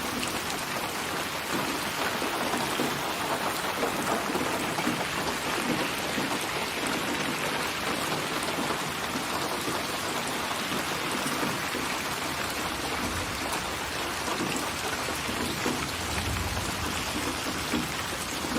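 Steady rain falling in a dense, even patter, with a low rumble of distant thunder over the last few seconds.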